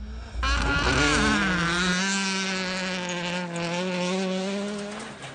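Rally car engine running hard at high revs, its note dipping slightly in pitch about a second in and then holding steady before fading near the end.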